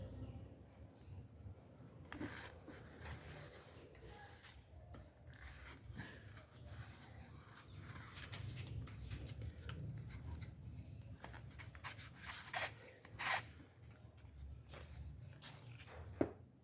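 Hands working on a car's air filter housing: plastic and filter material rubbing and scraping, with scattered light clicks and knocks, the sharpest about two thirds of the way through.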